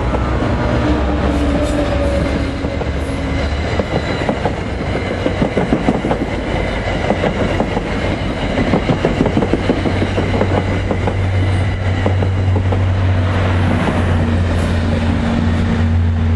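Commuter train's passenger cars rolling past at speed, wheels clacking quickly over the rail joints with a faint high wheel whine. In the second half a diesel locomotive's engine drone comes up loud and steady.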